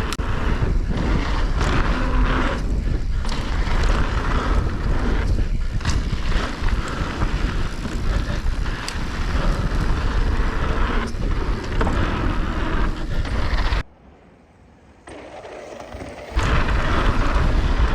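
Wind rushing over the microphone and mountain bike tyres rolling over a dirt jump trail on a fast downhill run. The noise drops away suddenly for about two seconds near the end, then returns.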